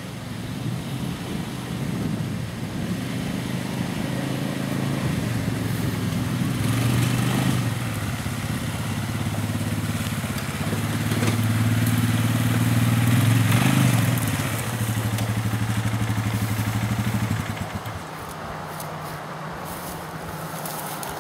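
Small gasoline engine running, its speed rising and falling several times before settling lower near the end; plausibly the motor of a homemade 2-inch gold dredge being started and throttled up.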